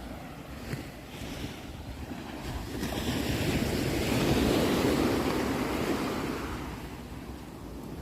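Ocean waves breaking on a shore: a steady wash of surf, with one wave swelling to a peak about halfway through and washing out again.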